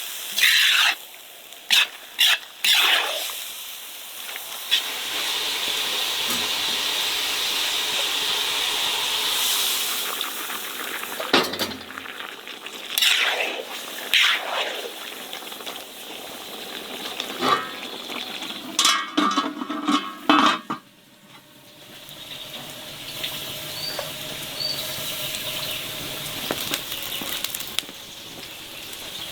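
Food-preparation sounds: dishes and utensils clinking and knocking, a steady hiss that lasts several seconds, and a brief rattle a little over halfway through.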